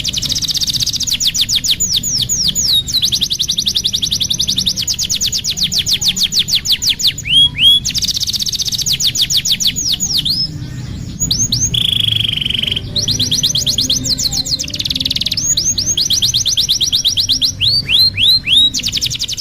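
Domestic canary singing a long, fast song of rapid trilled rolls: runs of quick rising and falling notes repeated many times a second, changing phrase every second or two, with a brief steady whistled tone partway through.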